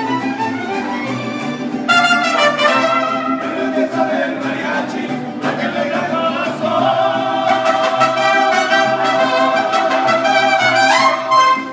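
Mariachi band playing, trumpets leading over violins and a stepping bass line, closing on a long held note that cuts off at the very end.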